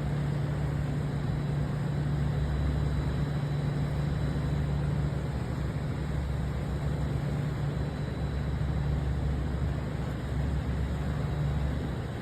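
Steady low drone of a ship's engines over a constant even hiss, unchanging throughout.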